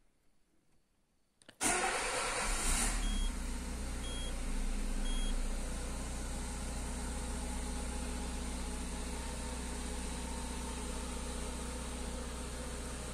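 Peugeot 206 engine starting about a second and a half in, louder briefly as it catches, then settling into a steady idle. Three short high beeps, about a second apart, sound soon after it starts.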